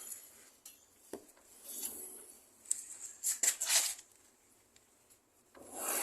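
Yamaha NMAX scooter's rear wheel turned by hand, giving an uneven rubbing, scraping whir with a few clicks, sharper scraping bursts midway and a swell of rushing noise near the end. The noise is judged normal, with no rear wheel bearing fault.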